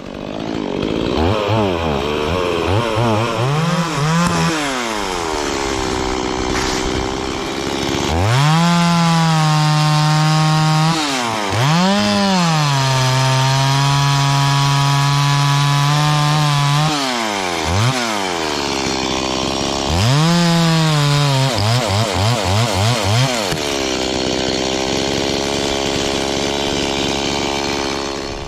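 Chainsaw revving up and down several times between long steady stretches while cutting into a tree. Near the end it gives a quick run of short blips, then runs steadily.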